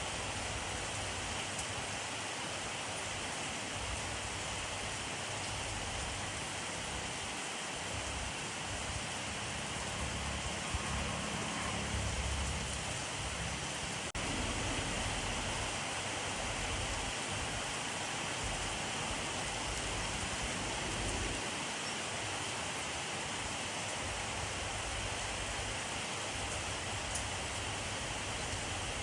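Steady rainfall: a dense, even hiss of rain falling on surfaces. A low rumble swells briefly near the middle.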